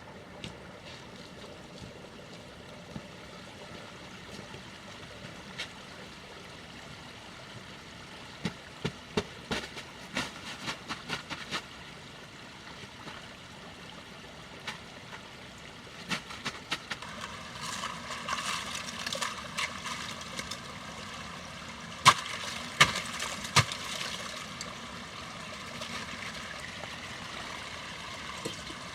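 Steady rushing of a stream, with scattered sharp knocks and clicks over it, the loudest few about two-thirds of the way through.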